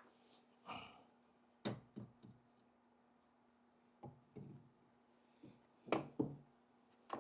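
Scattered light knocks and clicks of metal engine parts being handled as the cylinder barrels are worked down over pistons held in ring compressors, with a pair of sharper knocks near the end. A faint steady hum underneath.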